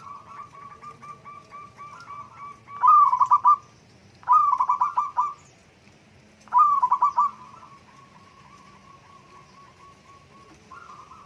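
Zebra dove (perkutut) cooing: a fast run of short notes, broken three times by loud bursts of quick staccato coos, then trailing off into a fainter trill.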